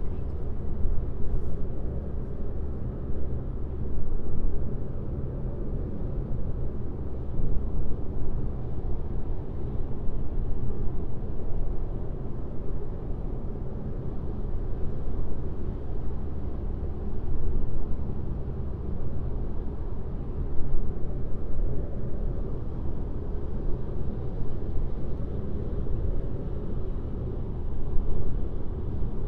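Car driving at highway speed: a steady low rumble of tyres and engine hum that swells and eases slightly with the road surface.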